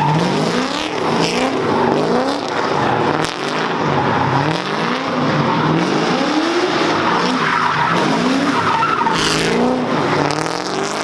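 Car engine revving hard again and again while the tires squeal and skid, as a car does donuts or drifts. The engine pitch climbs and drops back roughly once a second, with a brief louder burst of noise near the end.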